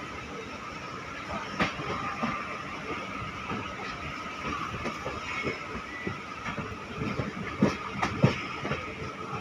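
Passenger train coach running on rails, heard from on board as the train comes into a station: a steady rumble with irregular wheel clacks over rail joints and points, and a few sharper knocks near the end.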